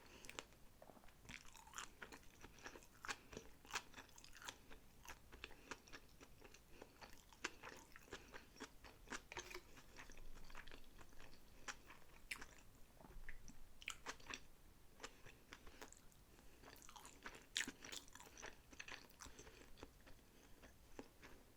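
Quiet, close-miked chewing of sushi rolls: a steady run of small wet mouth clicks and crunches.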